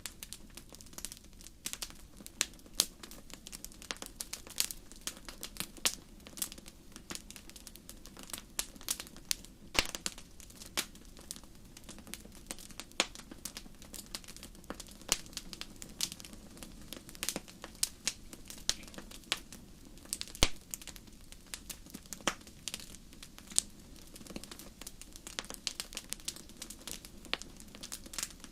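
Wood fire crackling and popping: many sharp, irregular pops and snaps over a steady low burn. The louder pops come at odd moments, around ten and twenty seconds in.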